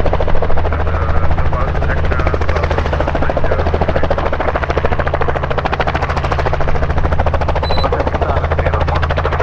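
Robinson R44 helicopter running close by: its six-cylinder Lycoming piston engine and two-blade rotor give a steady low drone with a fast, even chopping pulse.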